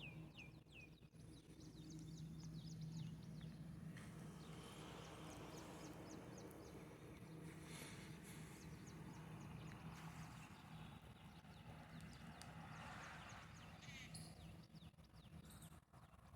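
Small birds chirping faintly in quick runs of short, high notes, over a low steady hum.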